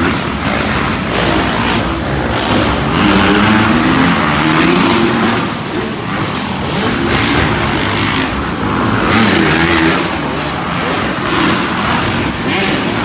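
Arenacross dirt bikes racing, their engines revving up and down again and again as the riders accelerate and back off.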